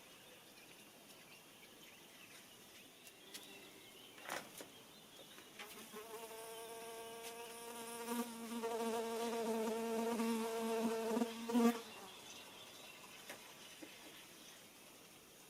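A flying insect buzzing for about six seconds, growing louder, then stopping suddenly. A single sharp click comes before it, about four seconds in.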